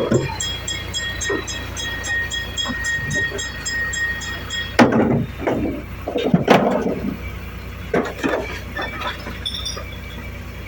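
Garbage truck working: a low engine rumble throughout, with a steady high whine and rapid ticking that stop about halfway through, followed by several loud clanks and bangs.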